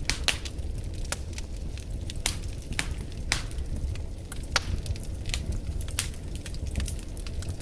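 Wood fire burning: irregular sharp crackles and pops, a few louder snaps, over a steady low rumble of the flames.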